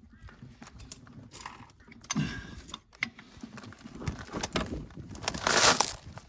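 Scattered metallic clicks and knocks of a wrench being worked on a tight bolt on the tractor's sump. A louder noisy rush lasting about half a second comes near the end.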